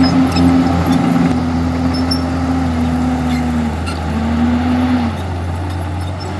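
Komatsu D51EX bulldozer's diesel engine running steadily under load. Its note sags about three and a half seconds in, picks up again, then drops once more about five seconds in.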